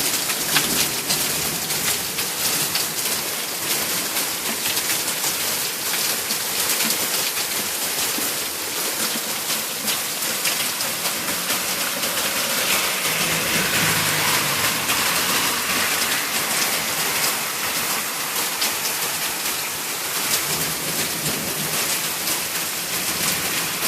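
Heavy rain falling steadily in a thunderstorm, a dense hiss of drops pattering on surfaces. A brief low rumble comes about halfway through.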